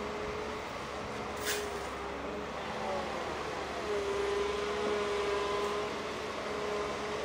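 Heavy diesel vehicle engine running steadily, its tone shifting slightly in pitch about halfway through, with a short high hiss about a second and a half in.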